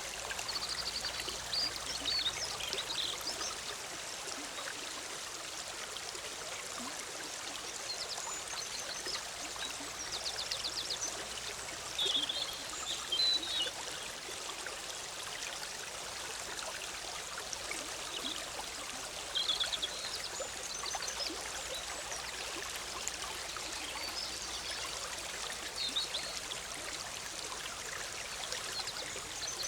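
Forest stream bubbling steadily over rocks, with songbirds giving short chirps and quick trills every few seconds above the water.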